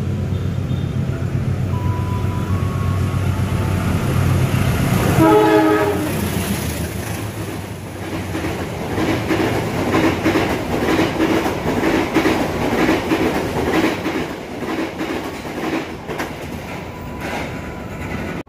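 A diesel locomotive runs with a deep steady drone, then sounds its horn once, briefly, about five seconds in. The train then passes with fast clattering of wheels over the rails, continuing to near the end.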